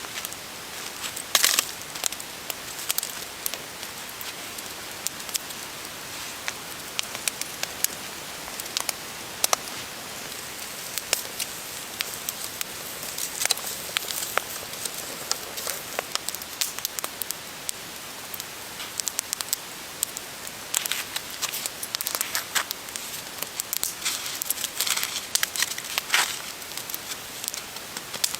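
Steady hiss with many irregular sharp crackles and pops, a few louder clusters of them about a second in and in the second half.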